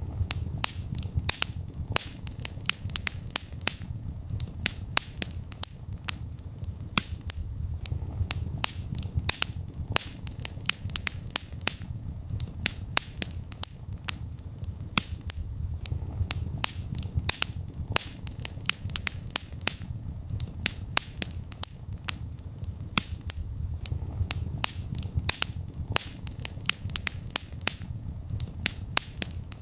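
Wood fire burning in a fireplace: frequent sharp crackles and pops, several a second, over a low steady rumble of the flames.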